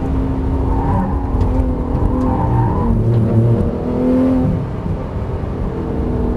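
Porsche 911 GT3's flat-six engine and road noise inside the cabin, running steadily as the car slows through a corner, its pitch shifting slightly.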